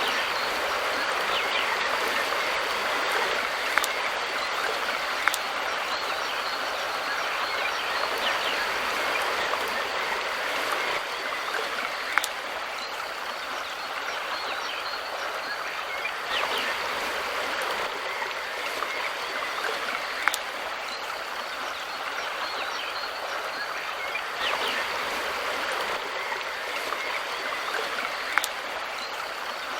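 Mountain river flowing, a steady rushing of water, with a few sharp clicks now and then.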